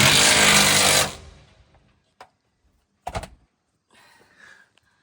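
A power tool runs in one loud burst of about a second, then stops; about three seconds in, a single metallic clunk follows.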